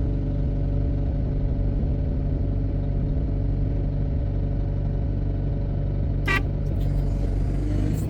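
Heavy diesel engine of a wheel loader running steadily under work, with a short high-pitched toot about six seconds in.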